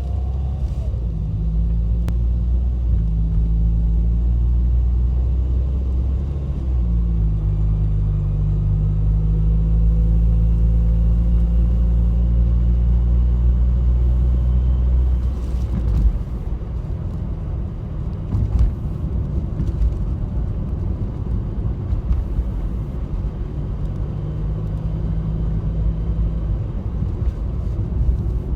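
Toyota Funcargo's 2NZ-FE 1.3-litre inline-four engine heard from the cabin footwell: a steady engine drone with a faint whine slowly rising in pitch. About halfway through the drone breaks up into a rougher, slightly quieter rumble, and the engine hum comes back near the end.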